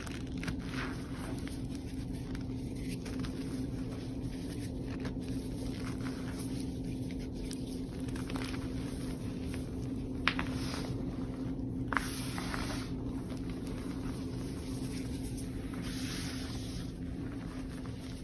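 Reformed gym chalk and cornstarch blocks crumbled by hand: soft, irregular crunching, with two sharper cracks about ten and twelve seconds in, over a steady low background hum.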